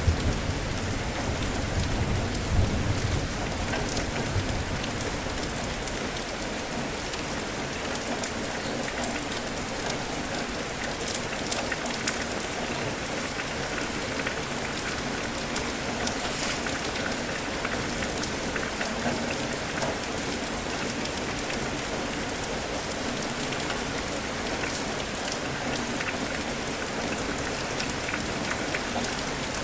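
Steady rain falling, a dense even hiss with scattered drop ticks. There is a louder low rumble in the first few seconds.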